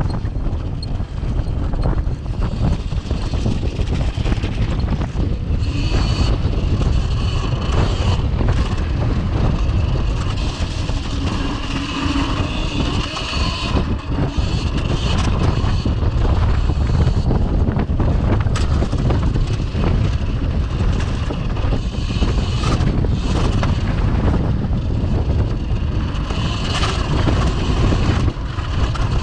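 Heavy wind rumbling on the microphone while riding a Cake Kalk OR electric dirt bike, with a faint high whine from its electric motor at times.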